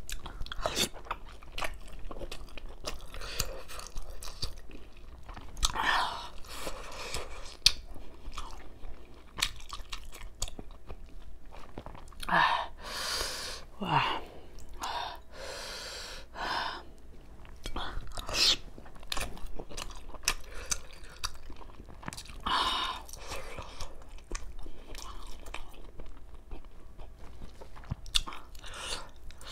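Close-up chewing of steamed chicken momo dumplings dipped in tomato sauce: wet mouth smacks and small clicks at an irregular pace, with a few louder, noisier bursts along the way.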